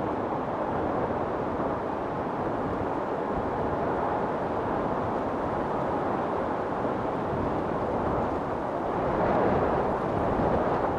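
Strong storm wind blowing in a steady rush, swelling in a gust about nine seconds in.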